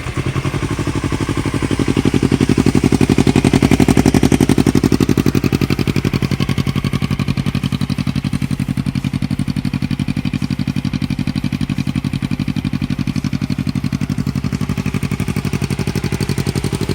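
Warm Yamaha YZF-R3 parallel-twin engine, breathing through an Akrapovic Racing GP full exhaust, fires right at the start. It runs a little higher for a few seconds, then settles into a steady, evenly pulsing idle with a deep note.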